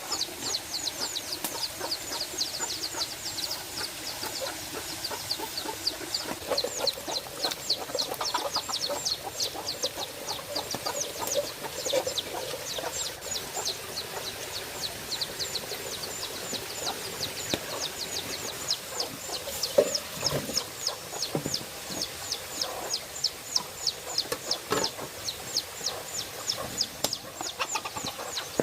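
Chickens: a long, steady run of high peeping chirps, about three a second, with lower clucking calls for a few seconds in the first half. A single sharp knock about two-thirds of the way through.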